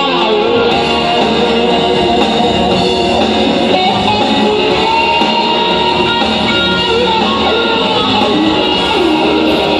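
Electric guitar playing a melodic rock instrumental over a full band backing, with sustained lead notes that slide and bend in pitch.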